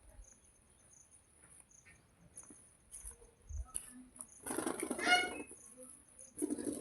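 Green parrot giving one harsh, loud call about halfway through, then a shorter, lower squawk near the end, with light scratching and shuffling in between.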